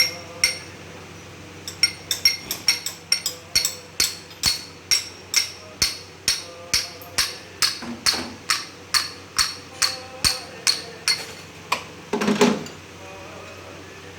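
Steady hammer blows on metal during engine assembly work, sharp and ringing, about two to three a second for some nine seconds. Near the end there is one longer, louder clatter.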